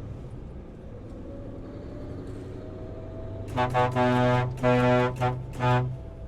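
A truck's air horn sounding in a quick series of about five steady-pitched blasts, starting about three and a half seconds in, over a diesel engine idling.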